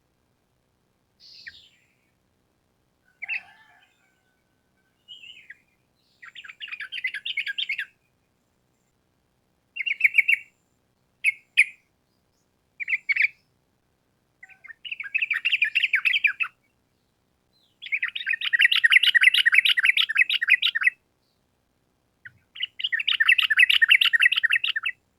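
Yellow-vented bulbul (trucukan) singing: a few short separate chirps, then repeated bursts of fast chattering trill. The bursts grow longer, the longest lasting about three seconds near the end.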